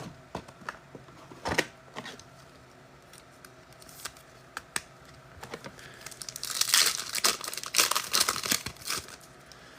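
A few light clicks and taps of cards being handled, then from about six and a half seconds in, a trading-card pack's wrapper crinkling and tearing as it is ripped open.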